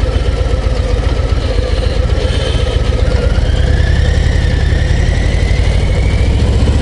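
Harley-Davidson Low Rider ST's Milwaukee-Eight 117 V-twin running while the bike is ridden, its exhaust pulsing loud and low; the engine note climbs gently through the middle as the bike picks up speed.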